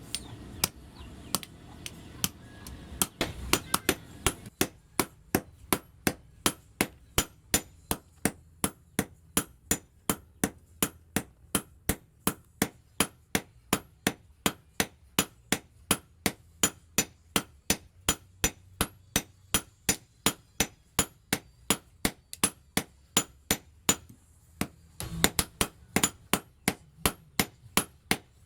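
Hand hammer striking steel on an anvil in a steady rhythm, about two to three ringing blows a second, as a blacksmith forges spring steel into a kored weeding tool. There is a short break a little before the end, then the blows resume.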